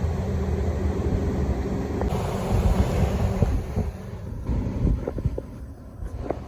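Carrier rooftop condenser unit running with a steady low hum. In the second half, wind buffets the microphone and a few short knocks are heard.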